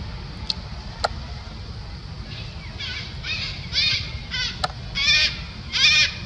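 A monkey giving a run of short, high-pitched calls, six or seven in a row, starting about two seconds in and growing louder, over a steady low rumble with a few sharp clicks.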